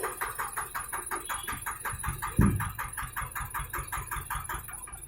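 Tractor diesel engine running with an even rapid clatter, about eight beats a second, and one heavy thump about two and a half seconds in.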